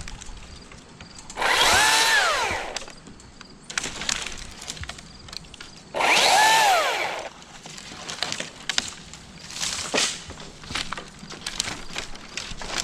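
Chainsaw cutting into wood in two short bursts a few seconds apart, its whine rising then falling with each cut, with scattered crackles and clicks in between.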